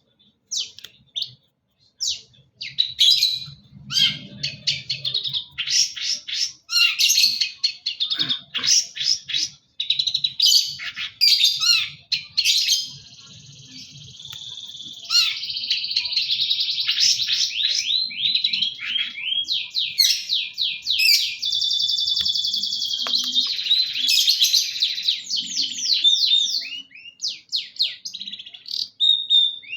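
Long-tailed shrike (pentet) singing a loud, varied song full of mimicked calls: quick chirps and trills, two long buzzy rattles and runs of rapid falling notes.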